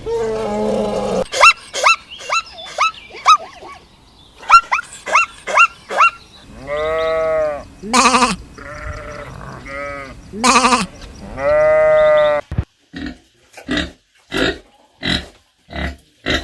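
Farm animal calls. The first part is a run of short, repeated squeaky calls. Through the middle come several long, arching bleats, typical of goats or sheep. Near the end there is a string of short, evenly spaced grunts or pulses.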